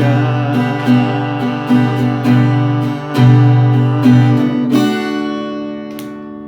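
Acoustic guitar strumming the closing bars of a song, then a final chord about three-quarters of the way through, left to ring and fade out.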